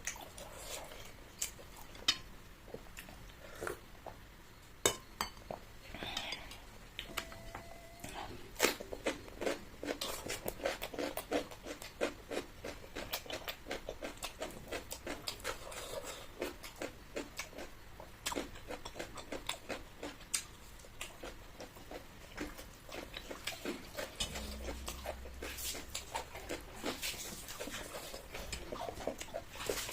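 Close-up eating sounds: a person chewing a mouthful of chicken curry and rice with wet mouth clicks and smacks, in quick runs, with now and then a clink of cutlery or dishes.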